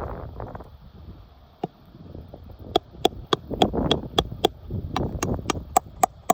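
Scraping and rustling on the roof, then from about three seconds in a hammer strikes metal in quick ringing blows, about three a second, with a short break partway through.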